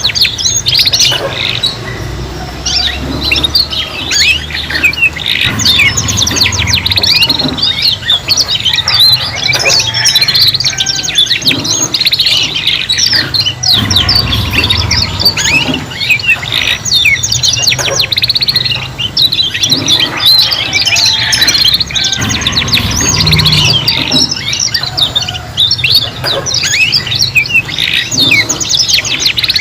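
Several young canaries singing together in a continuous tangle of quick chirps, warbling sweeps and fast trills: juvenile birds learning their song.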